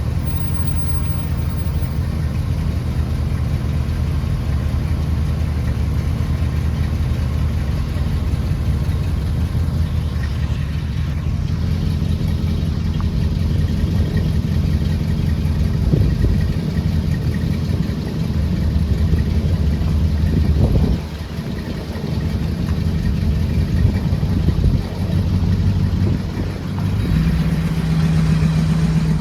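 Car engine running with a steady low hum, the level dipping briefly a few times in the last third.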